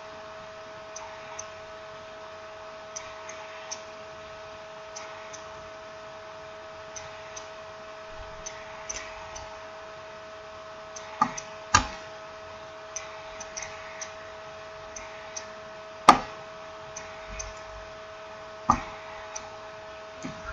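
Light, uneven clicks and taps of small smartphone parts and tools being handled during reassembly, with a few louder sharp knocks, over a steady electrical hum.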